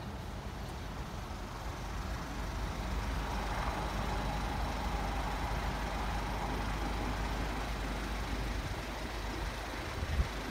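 A train running through a level crossing: a low rumble that builds over the first few seconds and then holds steady, with a sharp knock near the end.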